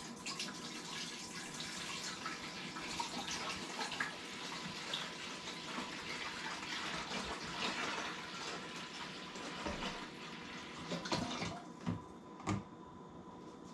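Water poured into the top-fill tank of an ultrasonic humidifier, a steady splashing trickle for about eleven seconds. The pouring stops, followed by a few short knocks near the end.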